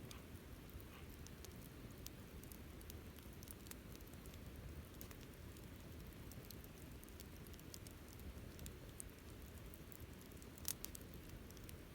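Wood campfire burning: a faint, steady low rumble of flames with scattered small crackles, and one sharper pop near the end.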